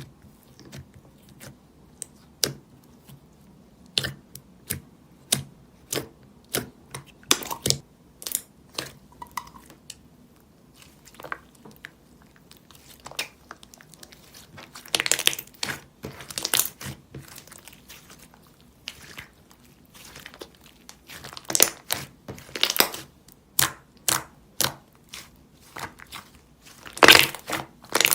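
Butter slime being squished and pressed by hand: a run of short sticky clicks and pops, with a few longer crackly stretches as it is folded and pulled.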